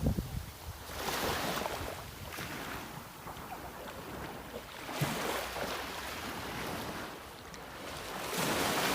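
Sea waves washing in, swelling and fading every few seconds, with some wind on the microphone.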